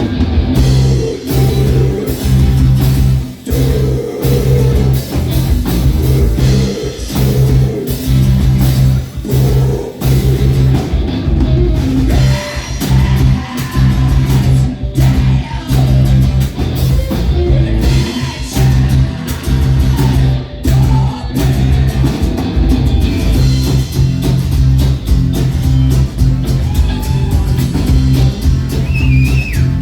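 Live rock band playing an instrumental stretch: guitar over a drum kit, with a strong, steady bass line.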